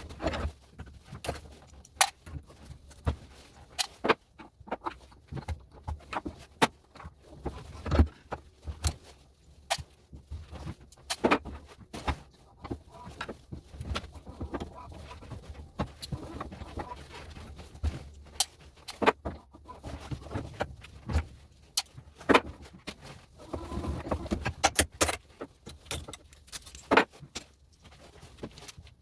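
Side cutters snapping and prying brass pins out of plastic household plugs clamped in a vise: irregular sharp metallic clicks and clinks, several a second, with small pieces of brass and plastic knocking about.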